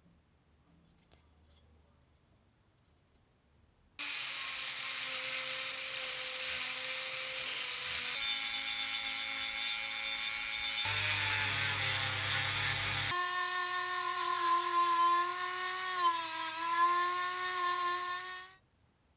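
Power tool motor running with a steady whine and rasping hiss, starting abruptly about four seconds in. The pitch and character jump suddenly three times, and it cuts off shortly before the end.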